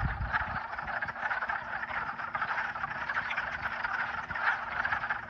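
A dense chorus of many frogs calling at once, countless rapid overlapping croaks merging into a continuous din: a spring breeding chorus, the frogs probably mating.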